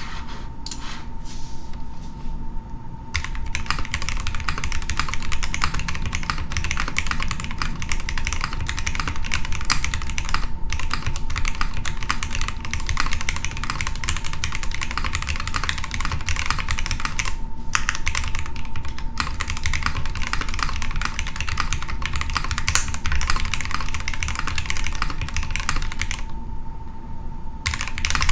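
Continuous fast typing on a Tetrix 60 mechanical keyboard built with a polycarbonate plate and no foam, keystrokes clicking in rapid runs. A few separate strokes come at first, the steady typing starts about three seconds in, and there is a brief pause near the end before it resumes. A faint steady tone hums underneath.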